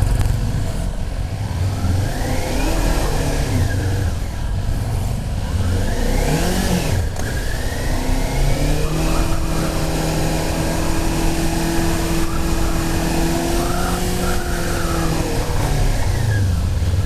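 Motorcycle engine riding through gear changes, its pitch rising and falling several times over heavy wind rumble on the microphone. From about nine seconds in it holds a steady note for several seconds, then eases off.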